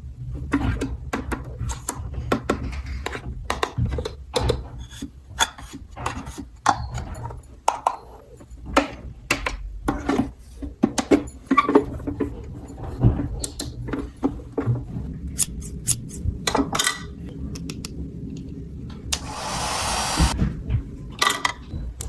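Small plastic toy pieces being handled: many short clicks, taps and rattles, with a hiss lasting about a second near the end.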